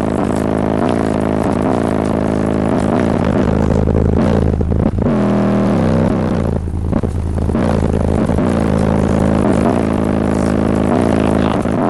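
Rap music played at very high volume through a huge car audio system of ten 18-inch subwoofers plus mids, tweeters and horns, with heavy bass. Two brief dips in the level come near five and seven seconds in.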